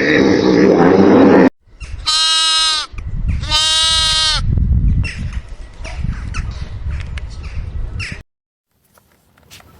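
Two loud, drawn-out animal calls of about a second each, each rising and then falling in pitch, after a different loud animal clip cuts off about a second and a half in; low rustling and handling noise follows the calls.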